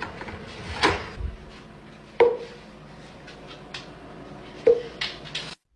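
A few sharp knocks and clatters in a small room, three of them loud and spaced a second or two apart, with lighter clicks between, cutting off suddenly near the end.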